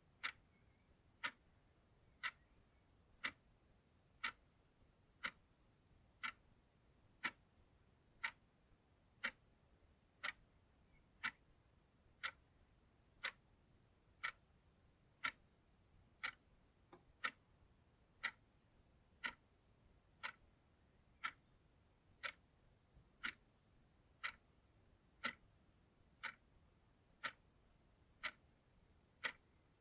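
Clock ticking steadily, one faint sharp tick about every second.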